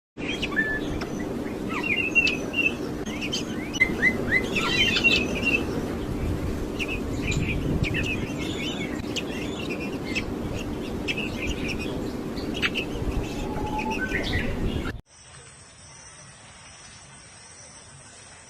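Parrots chirping in many short, high calls, some falling in pitch, over a steady low hum. About fifteen seconds in it cuts off suddenly to a much quieter steady hiss.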